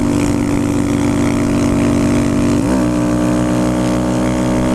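Motorcycle engine running steadily under way, with one gear change about two and a half seconds in that shifts the engine note.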